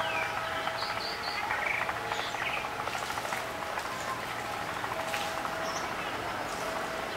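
Small birds chirping and tweeting in repeated short calls, over a faint steady drone and background hum.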